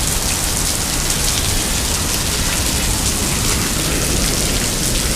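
Heavy rain pouring down, a dense, steady hiss of rain on the pavement.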